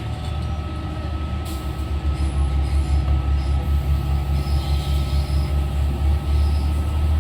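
Inside NI Railways Class 3000 diesel multiple unit 3023 under way: a steady, loud low hum that pulses rhythmically for a few seconds in the middle, with a thin steady whine above it.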